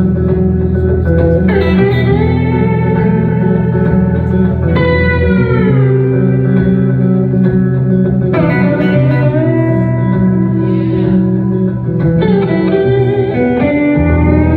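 Live instrumental guitar duo music: a slide guitar plays long held notes, several of them gliding down in pitch, over a steady low guitar accompaniment.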